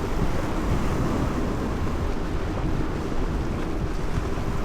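Wind buffeting the microphone over steady washing of seawater, as the wake of a passing tanker rolls in.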